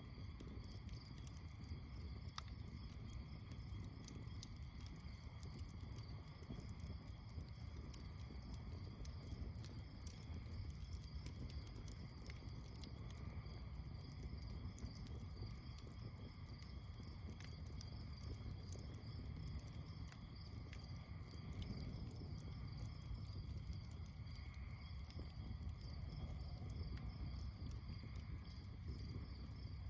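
Campfire crackling with scattered small pops, over a steady, high chorus of night insects chirring.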